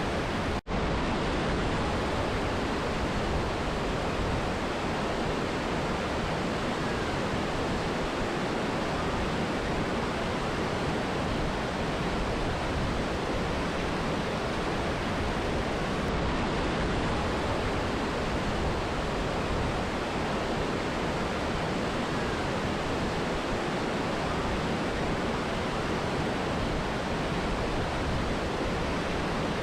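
Mountain river and waterfall rushing steadily, an even roar of water. The sound cuts out for a split second about half a second in, then resumes.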